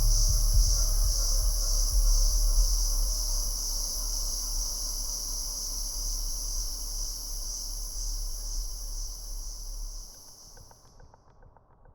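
A steady, high chorus of chirring insects over a low hum. The hum fades out about ten seconds in and the insects stop a second later.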